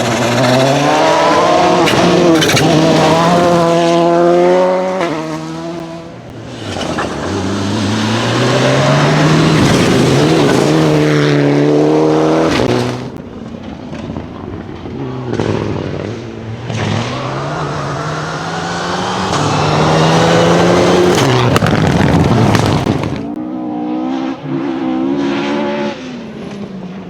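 Rally car engine revving hard under acceleration, its pitch climbing and dropping again and again through gear changes, with tyre and loose-gravel noise as it goes through the stage; near the end the engine is quieter and steadier as it moves away.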